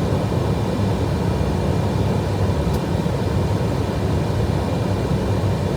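Steady flight-deck noise of an Airbus A320 in descent: an even rush of airflow and air conditioning, with a couple of faint steady high tones over it.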